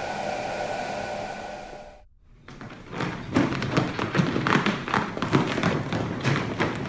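A steady whirring hum with a few held tones, cut off about two seconds in. After a short break comes a busy run of thumps and taps.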